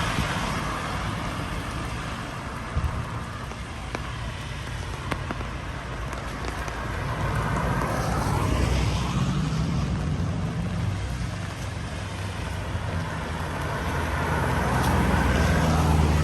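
Road traffic passing on a wet street: a steady hiss of tyres and engine rumble, with vehicles swelling past about halfway through and again near the end.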